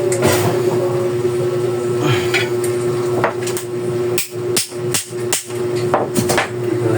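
A run of sharp knocks and clicks from hand tools and bicycle parts being handled while fitting a brake cable, several coming close together in the second half, over a steady hum.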